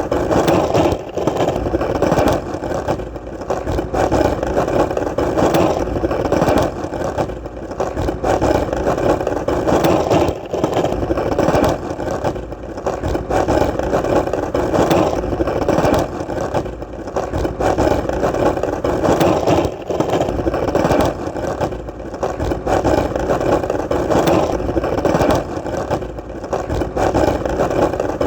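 Skateboard wheels rolling steadily on hard ground: a continuous rolling noise that dips briefly every few seconds.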